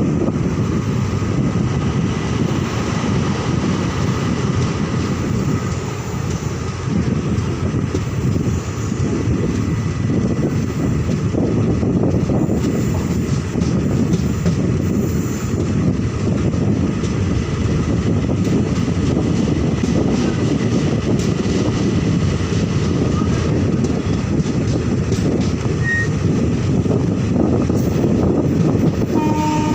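Long passenger train running past: a steady, loud rumble of coach wheels on the rails, with a constant rapid clatter.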